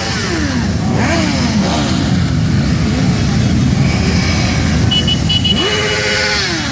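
Motorcycle engines revving and riding past, several engine notes rising and falling in pitch over a steady rumble of traffic.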